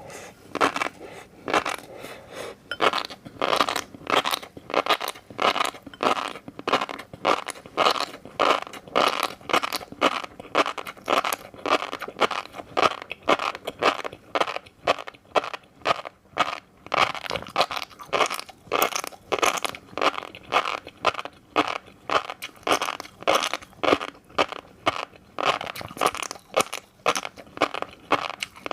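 Close-miked chewing of fish roe: a steady run of short, crunchy mouth sounds, about two a second.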